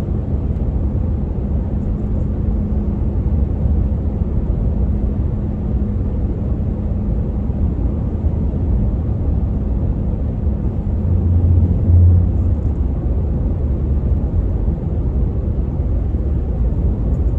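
Steady low rumble of engine and road noise inside a moving truck's cab, swelling briefly about twelve seconds in.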